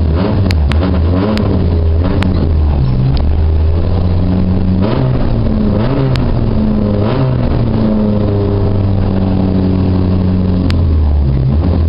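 Car engine heard from inside a gymkhana car's cabin, idling with the revs rising and falling several times as the throttle is blipped. A few sharp clicks come through over it.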